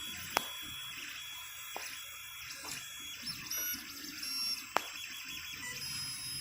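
3D printer running a print: its stepper motors whine in high tones that start, stop and jump in pitch as the print head moves. Two sharp clicks, one near the start and one past the middle.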